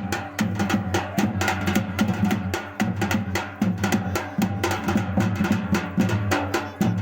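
Music with fast, unbroken drumming, several strokes a second, over a steady low tone.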